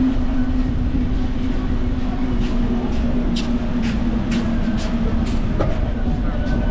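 Steady rumble of a bicycle ride, with wind and tyre noise and a constant low hum. A handful of sharp ticks come in the middle.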